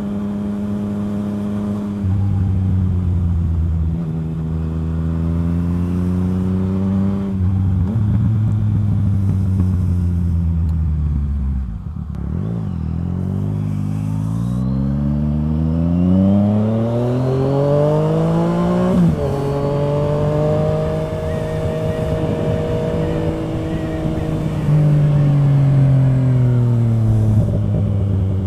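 Yamaha FZ-09's inline three-cylinder engine through a full M4 aftermarket exhaust, ridden on the road. The engine pitch holds, falls away as the bike slows, then climbs for several seconds, drops sharply at an upshift about two-thirds of the way in, and settles into a steady cruise that eases off near the end.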